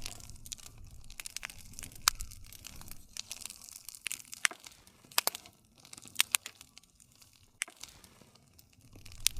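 Wood campfire crackling over a low rumble, with frequent sharp pops, the loudest about two seconds in, twice around six seconds in, and near the end.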